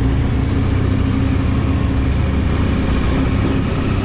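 Motorcycle engine running at a steady pitch, with a steady rushing noise over it.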